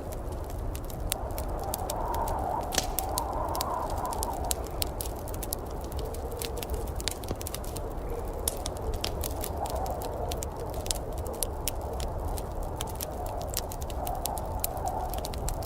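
Wood fire in a fireplace crackling with many quick, irregular sharp pops, over a steady low rumble and a mid-pitched wash that swells and fades a few times.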